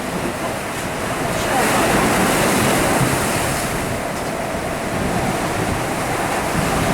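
Storm-driven surf breaking and rushing, with gusting wind buffeting the microphone; the rush grows louder about one and a half seconds in.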